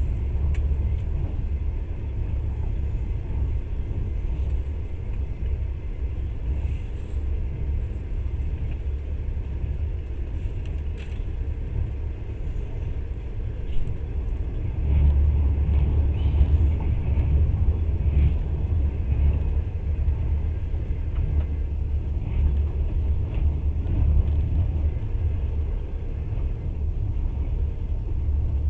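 Passenger train running at speed, heard from inside the carriage: a steady low rumble of the wheels on the rails, with a few faint clicks. The rumble grows louder about halfway through and eases off again near the end.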